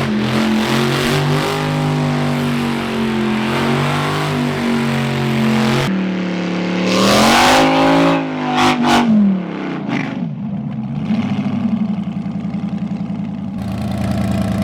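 Supercharged LS V8 in an R34 Skyline burnout car held at high revs for several seconds. It then revs up again and is blipped a few times before dropping back down toward idle. It settles into a lumpy idle near the end.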